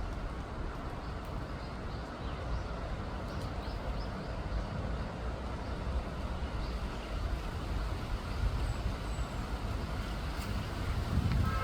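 Steady low rumble of distant road traffic, with a few faint high ticks above it.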